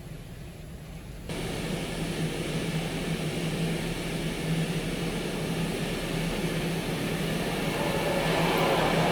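Belanger Condor automatic car wash starting its cycle about a second in: a sudden steady hiss of water spray over the car with a pump hum beneath, growing gradually louder, heard from inside the car.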